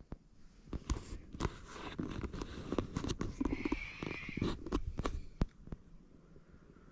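A run of irregular knocks, clicks and rustles, close by, dying away about five and a half seconds in.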